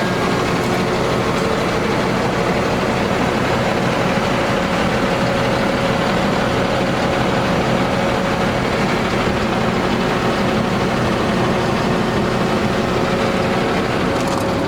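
Diesel engine of a medium-duty dump truck running steadily, with a few faint steady tones over the engine noise.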